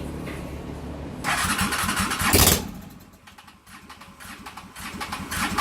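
Motorcycle engine start attempt on a bike that won't start: a steady low hum, then about a second in a loud burst of engine noise that rises in pitch and cuts off after about a second and a half. Near the end a second burst of rapid clatter builds up.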